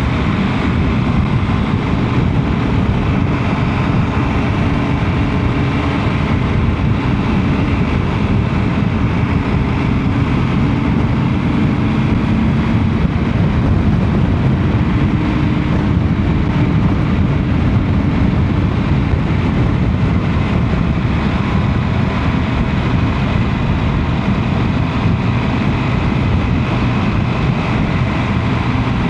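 Motorcycle engine running steadily at road speed, mixed with heavy wind and road noise.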